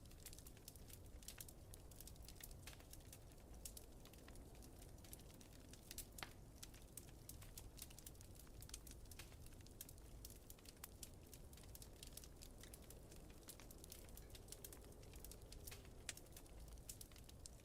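Faint wood fire crackling, with frequent small irregular pops, over a low steady rumble of blizzard wind.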